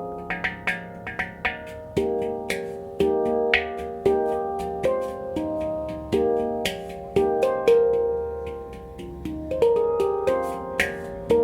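F minor handpan by Oasis Sound Sculpture, played with the hands: a flowing run of struck notes, each ringing and fading, with a quick flurry of strikes near the start.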